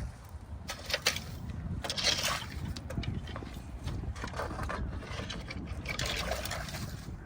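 Irregular rustling and scraping of wet leaves and debris being pulled off a drain by hand. The louder bursts come about a second, two seconds and six seconds in, over a low steady rumble.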